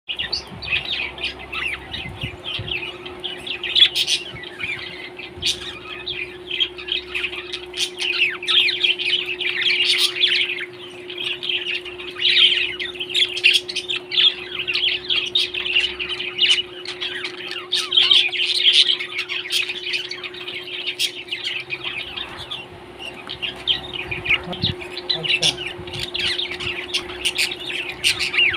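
A parrot chirping and chattering in rapid, continuous high tweets, over a steady low hum.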